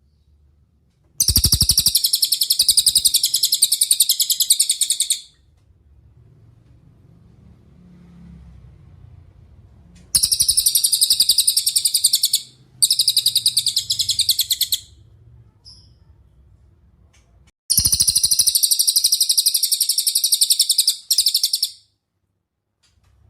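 Cililin songbird singing: four long, very rapid, high-pitched trills of about two to four seconds each, separated by pauses.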